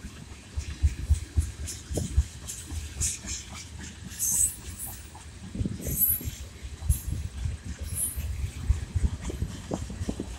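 Freight train tank cars rolling past: wheels knocking over rail joints in irregular low thumps, with a few short high squeals from the wheels in the middle and later part.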